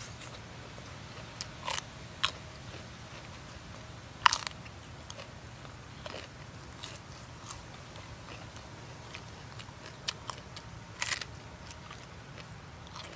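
Close-up eating sounds: a person chewing, with a handful of sharp crunching bites, the loudest about four seconds in and a few more near the end as a raw cabbage leaf is bitten.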